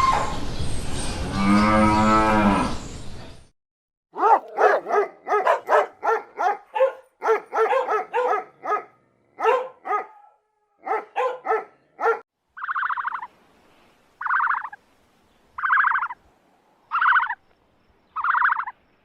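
A cow mooing, one long call that ends abruptly, followed by a dog barking in quick short barks, about two a second. After that a different animal call repeats evenly, about once every second and a half.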